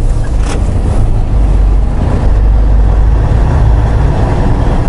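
Semi truck's diesel engine running, a steady low rumble, with a brief click about half a second in.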